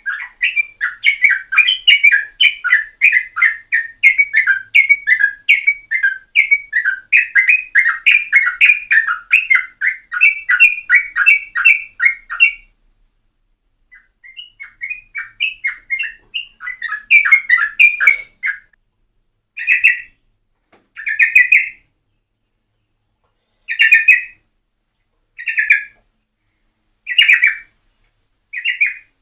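Sooty-headed bulbul (trucukan) singing: a fast, unbroken run of rapid notes for about twelve seconds. After a short pause it sings looser notes, then short separate phrases every second or two.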